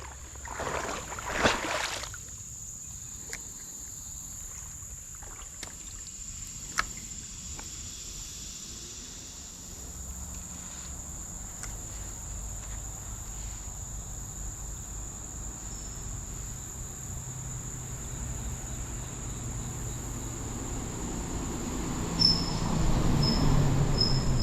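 Steady high-pitched drone of insects, with a low rumble underneath that grows louder near the end, and a few scattered clicks and handling noises.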